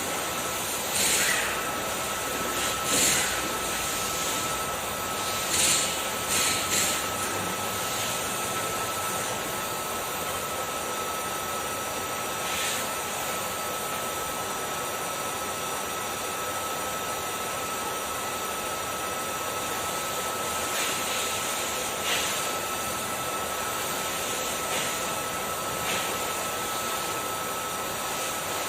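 Kärcher vacuum cleaner running steadily with a constant whine, with several brief louder hissing surges, most in the first seven seconds and again around twenty to twenty-six seconds in.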